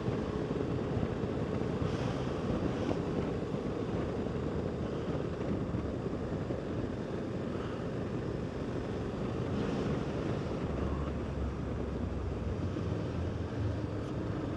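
Motorcycle under way at road speed: steady wind rush on the microphone over the engine's low, even hum.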